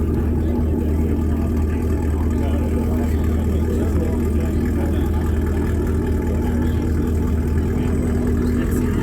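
A car engine idling steadily: an even low rumble with a constant hum, no revving.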